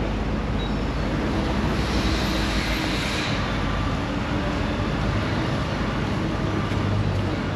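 A train running past on the seafront railway line: a steady rumbling noise with a low engine hum underneath, swelling briefly into a brighter hiss around the middle.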